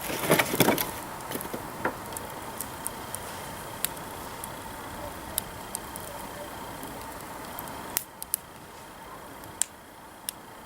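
Wood fire crackling: a dense flurry of cracks and knocks in the first second, then single sharp pops every so often over a faint steady hiss.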